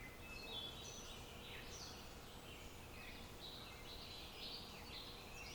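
Several birds singing at once, many short overlapping chirps and quick trills, over a low steady background rumble.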